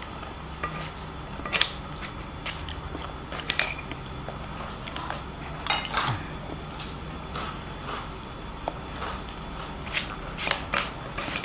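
A person eating fried rice and fried noodles close to the microphone: chewing, with scattered short clicks and smacks. A steady low hum runs underneath.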